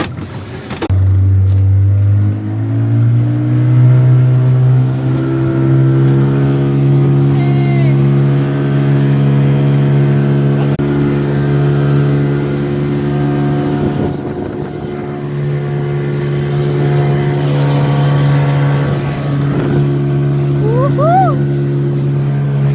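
Speedboat engine starts up loud about a second in, rising in pitch as it speeds up, then runs at a steady pitch.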